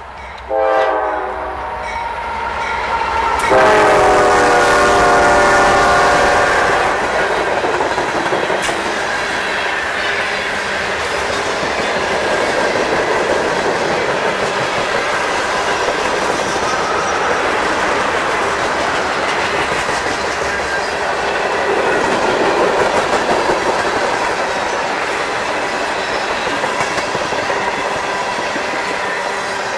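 Diesel freight locomotive's air horn: a short blast about half a second in, then a long, loud blast of a few seconds. Then the train rolls past, with wheels clattering over the rail joints.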